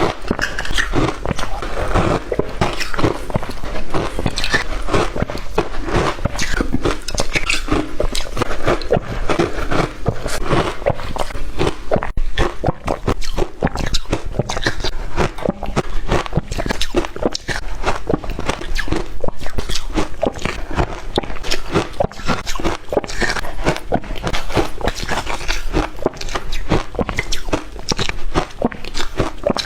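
Shaved ice being bitten and chewed, a dense, unbroken run of loud, crisp crunches.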